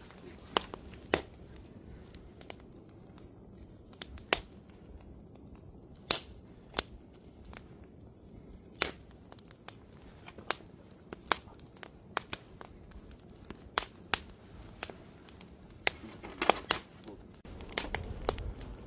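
Wood campfire crackling: sharp, irregular pops and snaps roughly once a second, a few closer together near the end, over the low steady rush of the burning fire.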